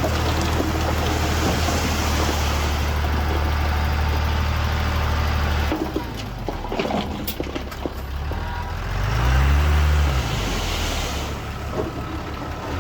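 Diesel engine of heavy earthmoving machinery running steadily under load. About six seconds in it drops off, with a few sharp knocks. Near ten seconds it revs up and back down once.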